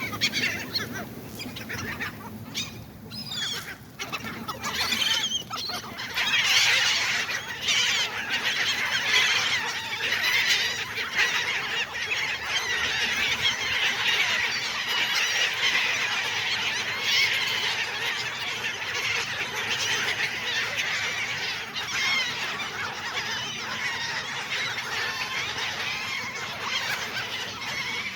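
A flock of gulls calling, many squawks and cries overlapping. The calls are scattered at first and thicken into a dense, continuous chorus about six seconds in.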